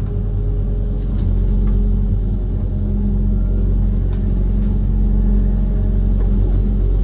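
Amphibious excavator's diesel engine running steadily, a low rumble with a few light clicks.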